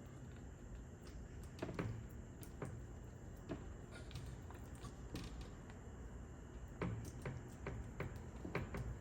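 Scattered light clicks and taps of things being handled, irregular and a little louder about two seconds in and again near seven seconds, over faint room noise.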